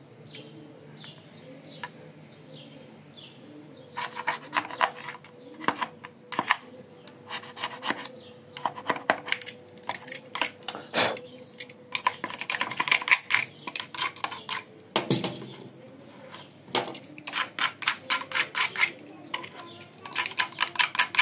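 Bursts of rasping, crackling scrapes and sharp clicks from hands working on the washing machine, in several dense runs after a quiet start, over a faint steady hum.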